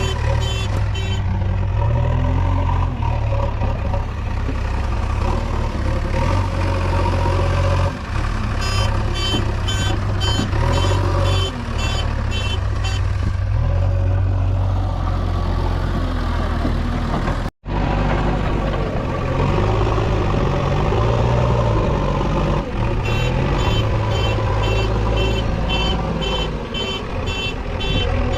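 Diesel engine of a JCB 3DX backhoe loader running steadily while loading mud, with a reversing alarm beeping at about two and a half beeps a second in three stretches of a few seconds each.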